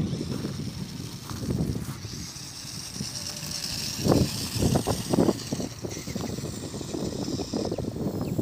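Remote-control monster truck running over rough ground: its electric motor whines high while the wheels and chassis rumble and clatter, with a burst of louder knocks about halfway through.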